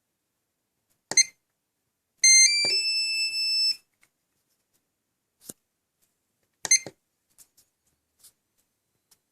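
SkyRC S60 battery charger beeping: a short beep about a second in, then a three-note rising chime held for about a second and a half, another short beep near seven seconds, and a few faint clicks.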